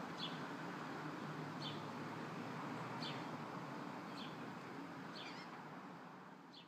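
A small bird giving short, high chirps about every second and a half over faint outdoor background noise, fading out near the end.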